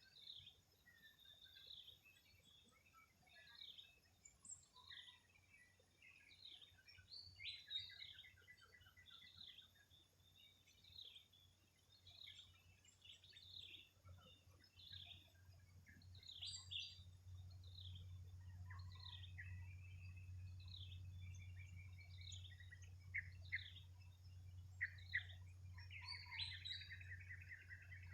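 Faint chorus of birds chirping and calling, with short notes repeating and a rapid trill near the end. A steady low hum joins about halfway through.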